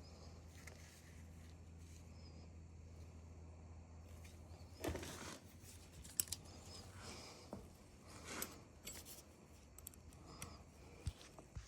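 Faint, scattered clicks and rustles of tools and small parts being handled, over a low steady hum that fades out after about four seconds.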